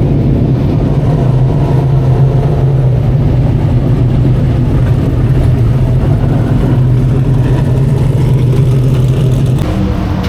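Big-block engine of a Northeast dirt modified race car running steadily at one engine speed, dropping away near the end.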